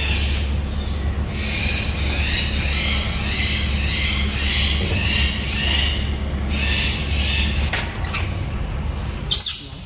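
Many small caged birds chirping and chattering together over a steady low hum. About nine seconds in, one loud, shrill squawk rises sharply.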